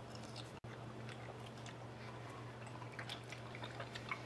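Faint wet chewing and biting of fresh strawberries, in small scattered clicks that come mostly near the end, over a low steady hum.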